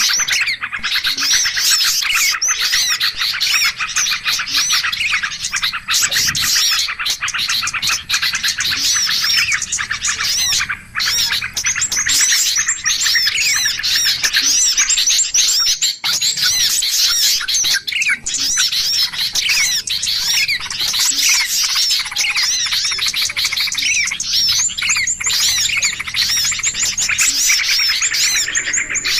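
A dense, noisy chorus of many small birds chirping and calling over each other without a break: a 'pikat ribut' bird-trapping lure recording, made to sound like an agitated flock and draw small birds in.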